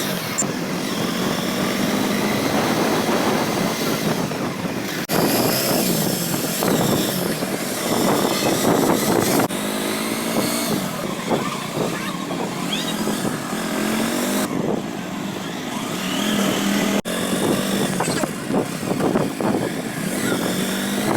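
Motorcycle engine and road traffic noise during a ride, steady and loud, broken by abrupt cuts between clips about five, nine and seventeen seconds in.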